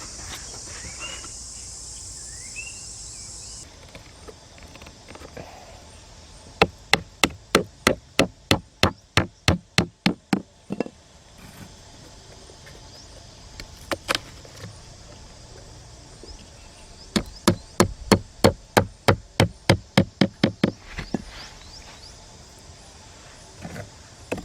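Repeated sharp hammer-like blows: two runs of quick, even strikes, about three a second and each lasting about four seconds, with a single strike between them.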